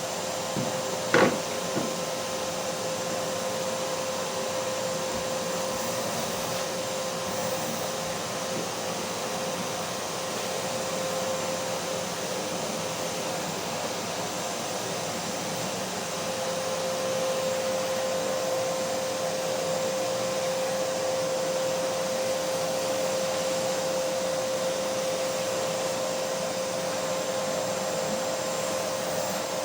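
Vacuum cleaner motor running steadily, a whooshing noise with a constant whine, growing a little louder about halfway through. A single sharp knock sounds about a second in.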